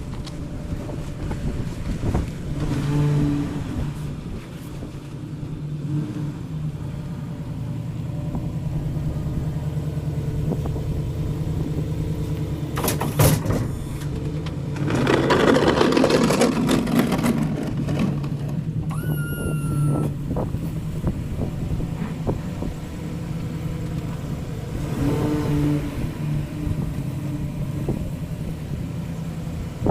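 Truck engine running steadily, with a louder rushing stretch about halfway through and a short falling whine soon after.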